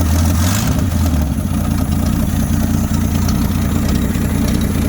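A 1979 AMC Jeep J10's 258 inline-six idling steadily. About a second in, its low engine note steps down and settles, as the choke comes off and the fast idle drops to a normal idle. It runs smoothly.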